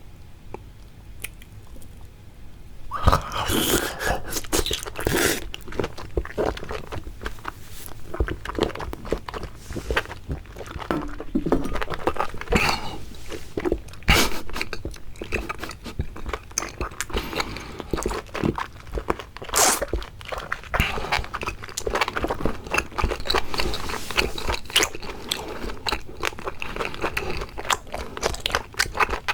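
Close-miked mouth sounds of a person chewing and biting seafood: a dense run of small wet clicks and smacks. It is quieter for the first three seconds or so, then the chewing goes on steadily.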